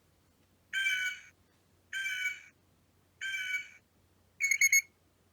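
Four short electronic tones, each about half a second long, the fourth broken into three quick pulses.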